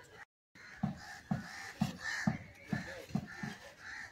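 A bird calling in a series of about seven short calls, roughly two a second, with fainter bird calls behind.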